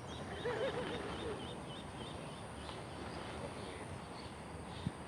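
A run of otters' quick, high chirps, about three or four a second, with a few lower wavering calls near the start; a single sharp click near the end.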